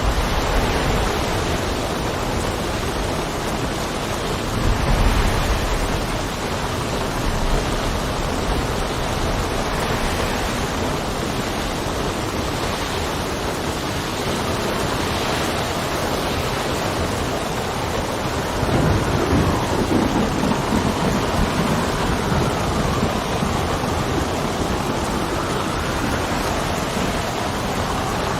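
Steady heavy rain with wind, a howling whistle rising and falling in pitch through the second half. Low rumbles swell briefly about five seconds in and again at about twenty seconds.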